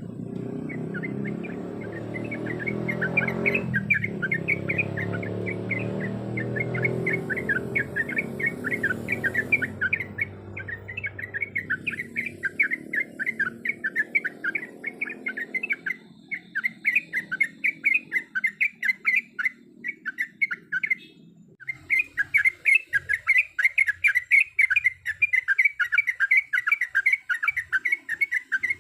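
Yellow-vented bulbul (trucuk) chattering: a fast, unbroken run of short, high repeated notes that stops briefly once, about two thirds of the way in, then resumes. A low hum sits under the calls in the first half and fades out.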